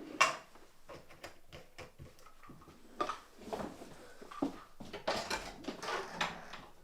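Scattered knocks, clicks and rustles of objects being handled, with a busier stretch of handling noise near the end.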